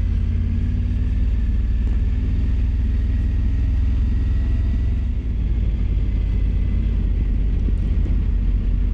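Triumph Tiger 900 Rally Pro motorcycle's inline three-cylinder engine running steadily at an even engine speed, its sound mostly low-pitched.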